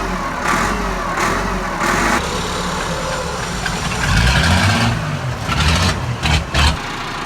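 Massey Ferguson 375 tractor's three-cylinder diesel engine running through a modified exhaust. It runs steadily, gets louder in two surges in the second half, then drops off sharply near the end.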